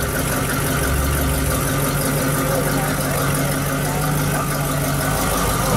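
A car engine idling steadily, with people's voices chattering in the background.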